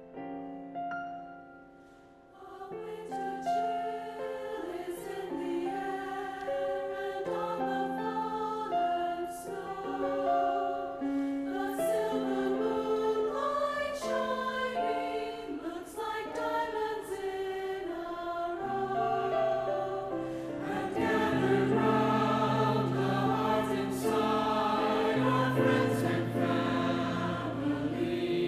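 Choir singing a Christmas piece with piano. The voices come in about two seconds in, after a brief piano lead-in, and lower voices join about two-thirds of the way through.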